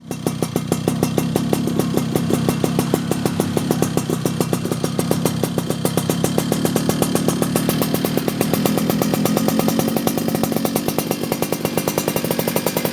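Two-stroke Yamaha F1ZR motorcycle engine running steadily through a stock-look racing exhaust, with an even, rapid pulsing beat and no revving.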